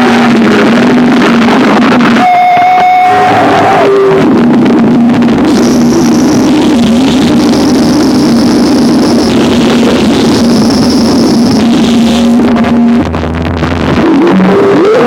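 Harsh noise music: a loud, dense wall of distorted electronic noise over a steady low drone. High piercing tones switch on and off in blocks of a second or two, and the level dips briefly near the end.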